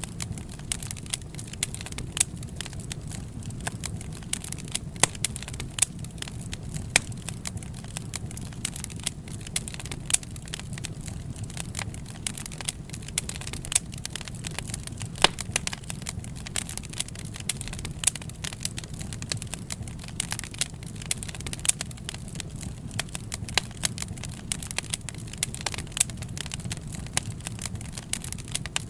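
Wood fire crackling steadily, with frequent irregular sharp pops and snaps over a low, steady rumble.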